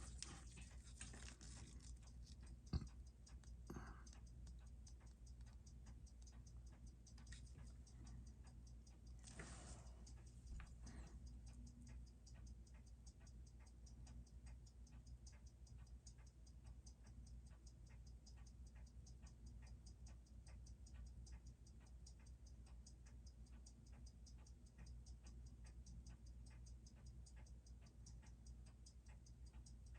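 Seiko 6R15 automatic watch movement ticking steadily, about six beats a second, as its balance runs. A sharp click comes about three seconds in, with brief handling rustles near the start and about nine seconds in.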